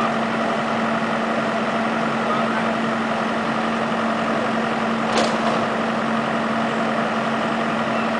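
Engine of heavy demolition machinery running steadily, with one sharp knock about five seconds in.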